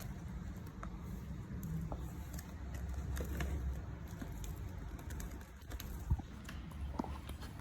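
Pet lovebirds giving faint, short chirps over a low rumble, with one sharp thump about six seconds in.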